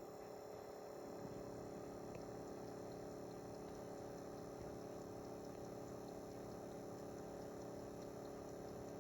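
Faint steady hum with hiss, unchanging throughout; no speech or music.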